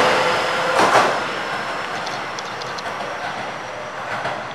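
Taiwan Railways EMU700 electric multiple unit running along the rails past the platform, wheels clattering over the track, with a louder clack about a second in. The sound fades steadily as the train draws away.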